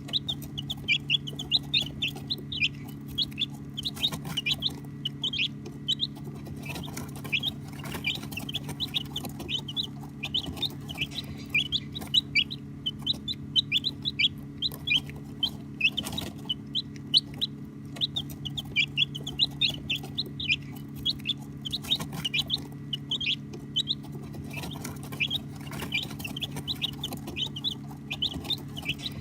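A brood of baby chicks peeping continuously, many short high-pitched chirps overlapping several times a second, over a steady low hum.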